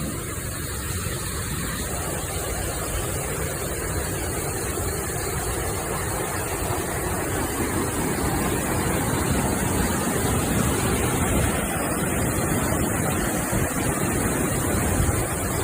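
Waterfall: steady rushing of falling water, growing slightly louder partway through.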